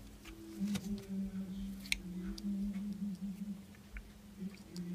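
Light clicks and ticks of small screws and parts being handled and fitted on a plastic RC truck chassis, scattered irregularly over a low steady hum.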